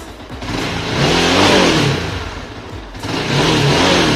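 Carbureted Chinese 250 cc motorcycle engine blipped twice, revving up and falling straight back to idle each time: a throttle-response check after a carburetor tune.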